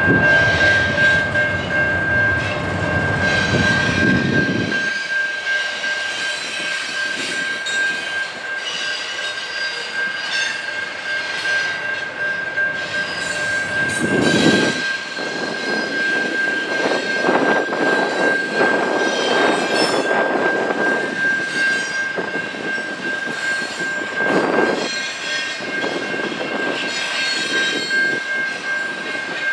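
Train cars rolling by with a steady high-pitched squeal and repeated clicking of wheels on rail joints. A heavy low rumble runs through the first five seconds, then drops away.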